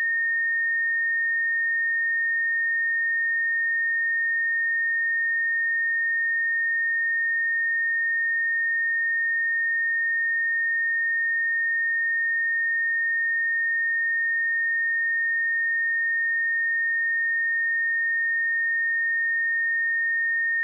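A steady, pure 1837 Hz sine-wave test tone, one unchanging high-pitched pitch at constant loudness, used for checking speakers and headphones.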